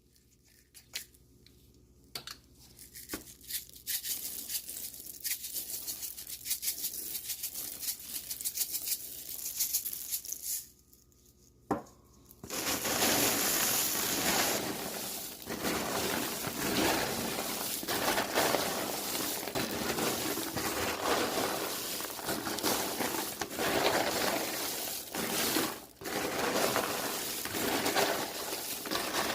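Plastic sprinkle containers and packaging being handled and opened: scattered clicks, crinkling and tearing. After a brief pause about 12 seconds in, a denser, louder crackling and rustling continues, like dry food or packaging being worked by hand.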